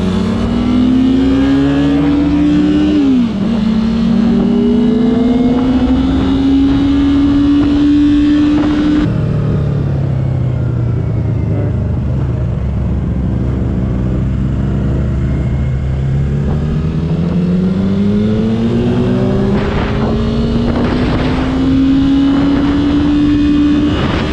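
A vehicle's engine heard on board while accelerating through the gears. Its pitch climbs, dips at an upshift about three seconds in and climbs again. About nine seconds in the throttle closes and the revs fall slowly, then it pulls again and shifts near the end. Wind rush runs under it all.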